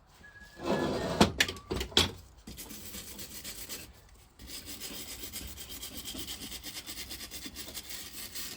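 A few heavy clunks as metal parts are handled. Then steady, fast scraping at rust and old gasket on the vaporiser of a Lister TM stationary engine, with a short break about four seconds in.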